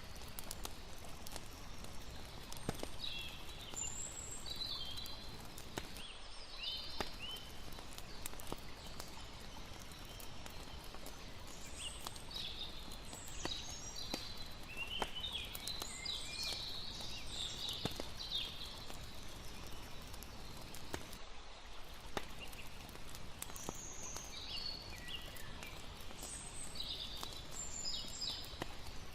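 Layered night ambience: a campfire crackling with many scattered sharp pops, and short high chirping calls from night creatures coming and going in clusters. Under them runs a steady soft wash of noise.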